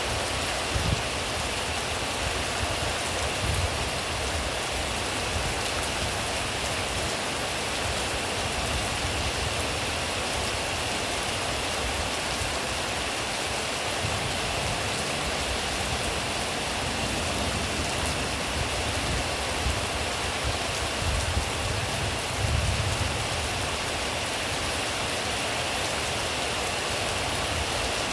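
Steady rain falling and pattering on surfaces, a constant even hiss with scattered louder drops.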